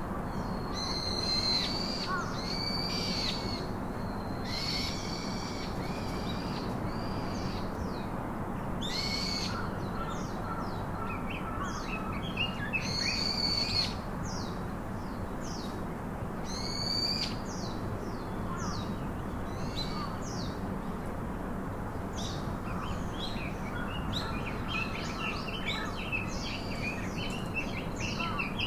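Several birds calling and singing, with short high notes repeated in quick clusters, over a steady background hiss.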